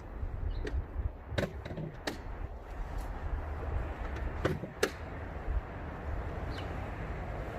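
Several sharp knocks and clicks, in two close pairs about a second in and just past the middle, over a low steady rumble.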